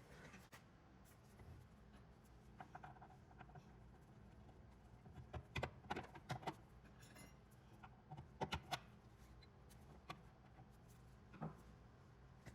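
Light clicks and clinks of metal cabinet hardware being handled and fitted back onto the wooden cabinet, coming in small clusters about halfway through, over a faint low room hum.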